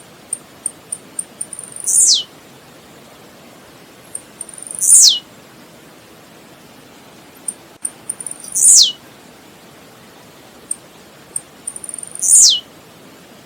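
Blue-black grassquit (tiziu) singing: four songs about three and a half seconds apart, each a run of quick high ticks leading into a loud, sharp note that sweeps down in pitch.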